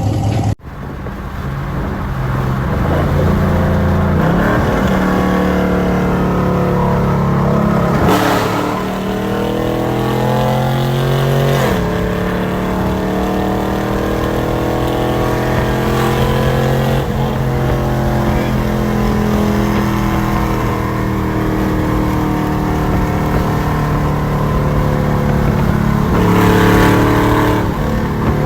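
Loud V8 car engine through an aftermarket exhaust, accelerating. The pitch climbs and drops sharply at gear changes about 8 and 12 seconds in, then settles into a long drone that rises slowly.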